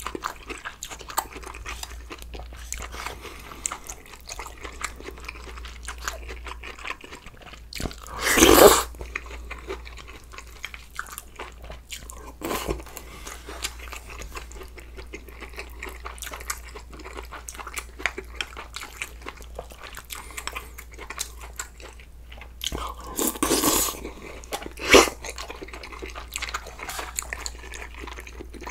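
A person chewing and crunching food, budae-jjigae with ramen noodles and crisp kimchi, in a steady run of small wet clicks. Louder noises come about eight seconds in and twice more near the end.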